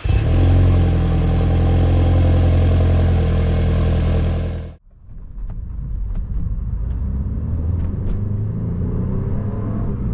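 BMW Z4 sDrive28i's 2.0-litre turbocharged four-cylinder running loud and steady at a raised cold-start fast idle. It cuts off abruptly about five seconds in, giving way to a quieter low rumble of the car on the move with a few light clicks.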